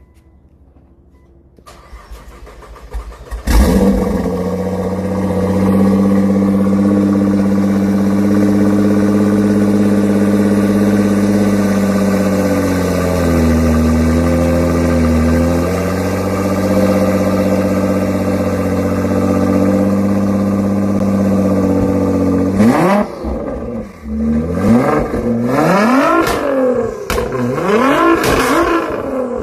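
Porsche 911 GT3 RS flat-six cold start: the starter cranks for about two seconds, then the engine catches loudly and settles into a high, steady fast idle that sags briefly midway. Near the end it is revved in about five quick blips, the revs rising and falling.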